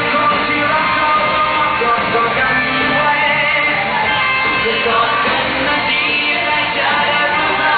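Live concert music: a band playing a medley of pop hits with a singer's voice over it, loud and continuous, recorded with a dull, muffled top end.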